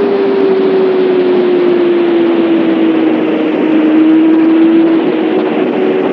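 Kawasaki ZX6R's inline-four engine and exhaust running at steady revs while riding, the note sinking slowly as the bike eases off, then stepping up slightly near the end. A steady rushing hiss runs underneath.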